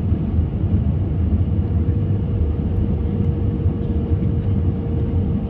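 Steady low rumble of an Airbus A320's engines and airflow, heard inside the passenger cabin. A faint steady hum joins it about a second and a half in.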